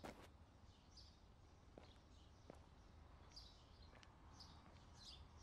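Quiet outdoor ambience with faint birds chirping now and then and a few soft ticks over a low background hum.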